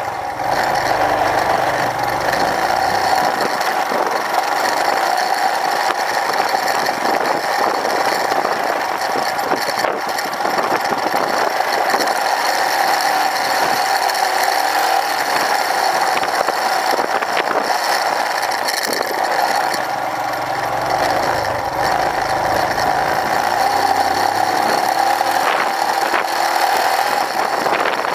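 Royal Enfield Himalayan's single-cylinder engine running steadily as the motorcycle is ridden, with mechanical rattling.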